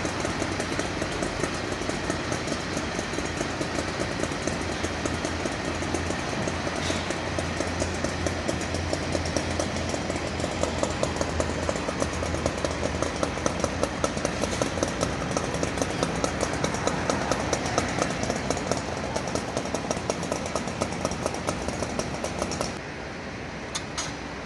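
A vehicle engine running with a low hum and a rapid, regular clatter. It drops away suddenly near the end.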